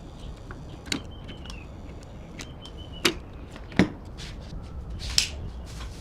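Workshop work sounds: four sharp knocks and clicks of tools or metal parts being handled, the one a little before four seconds in the loudest, with a few faint short squeaks over a low hum.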